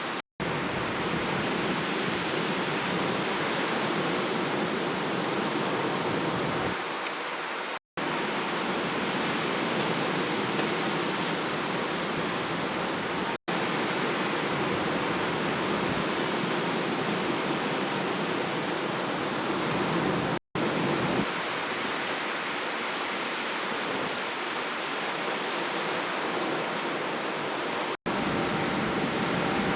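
Steady rushing noise with no distinct events, broken five times by brief complete dropouts a few seconds apart.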